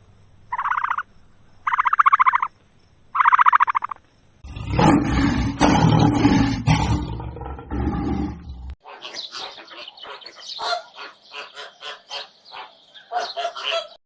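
A run of animal calls: three short pitched calls about a second apart, then a loud, low, rough call lasting about four seconds, then a long series of quick, short, bird-like chirps.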